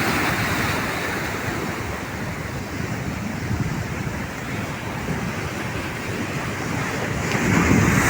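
Mediterranean Sea surf washing ashore as a steady rush, swelling louder near the end as a bigger wave comes in.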